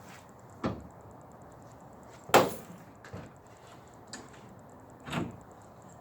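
Three separate knocks and thumps of gear being handled while a truck-mounted awning is set up; the middle one is the loudest.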